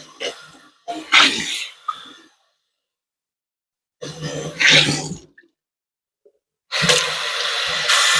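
A person sneezing twice, a few seconds apart. A steady hiss starts near the end.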